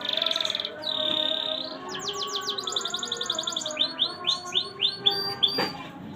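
Domestic canary singing a fast, varied song: buzzing trills, then rapid runs of short notes, then a series of separate slurred notes about three a second, the phrase changing every second or so.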